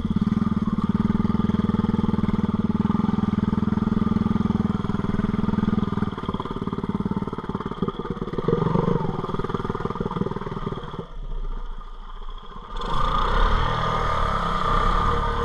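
ATV engine running in four-wheel drive, holding steady for about six seconds, then rising and falling unevenly as the machine works over the ground. About thirteen seconds in, a loud rushing noise comes in over it.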